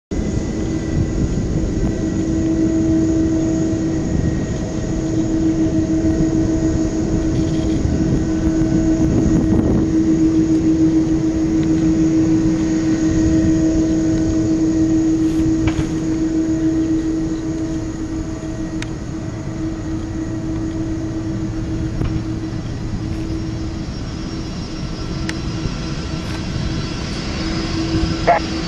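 Airbus A330 jet engines running steadily, a constant hum over a low rumble.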